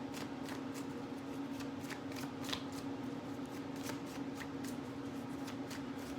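A tarot deck being shuffled by hand: a run of quick, irregular card clicks and riffles, over a steady low hum.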